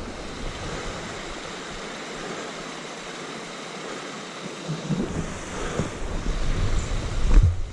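Wind rushing over the microphone as a steady noise, with low rumbling buffets starting about halfway through and getting louder near the end.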